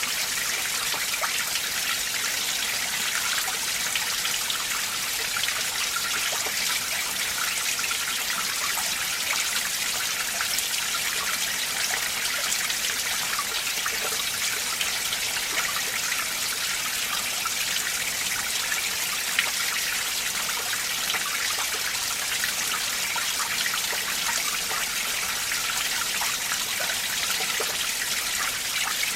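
A winter mountain stream running over rocks: steady splashing and trickling water.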